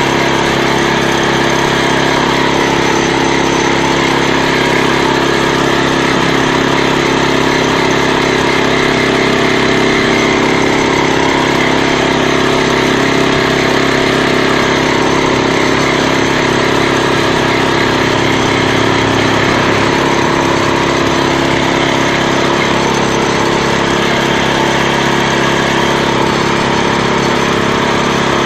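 Walk-behind tractor's engine running steadily as it drives along.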